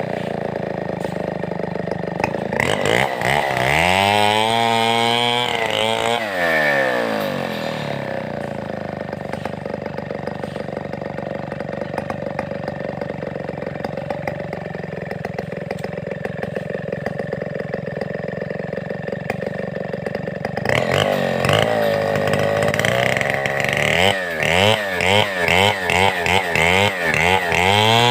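Large Stihl 070-pattern two-stroke chainsaw running. It revs up and down a few seconds in, then runs at a steadier, lower pitch for a long stretch. Near the end it revs in quick repeated surges.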